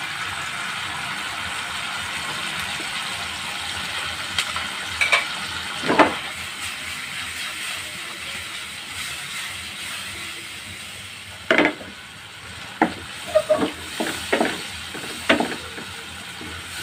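Sliced chilies and onion sizzling in margarine and just-added oyster sauce in a non-stick wok, with a wooden spatula knocking and scraping against the pan as it stirs. The sizzle is steady and eases off over the second half, while the spatula knocks come singly in the first half and in a quick cluster near the end.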